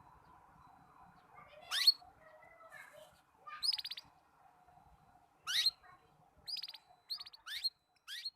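Young canary practising its song in broken phrases: a soft, low warble, then several loud upward-sweeping chirps and short rapid trills separated by pauses. It is a juvenile still learning to sing, its song not yet joined into a full phrase.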